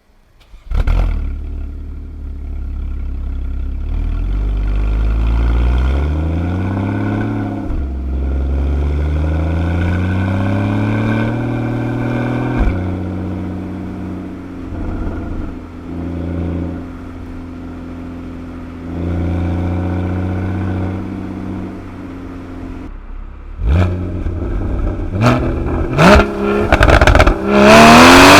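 Porsche 981 Boxster GTS's 3.4-litre flat-six through its factory flap sport exhaust, pulling up through the gears: the pitch rises, breaks at a shift, then rises again. It then runs steadier. Near the end a few sharp exhaust pops lead into loud, hard acceleration.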